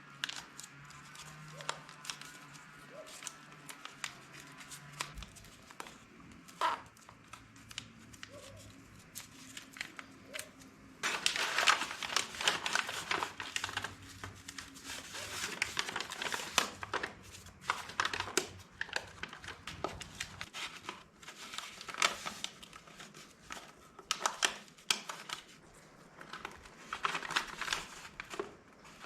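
Crinkling of a covering sheet and tape being torn off the roll, in irregular crackly bursts that get busier and louder about eleven seconds in, as parts are masked off for painting.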